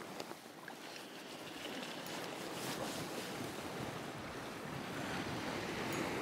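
Sea waves washing against a rocky shore, with wind buffeting the microphone; the wash swells louder in the second half.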